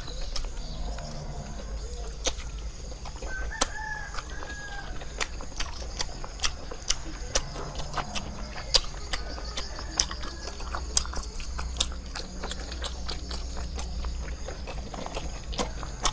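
Close-up eating sounds: chewing and lip-smacking on caramelized pork skin and sticky rice, as many short irregular wet clicks. A chicken clucks briefly about three and a half seconds in.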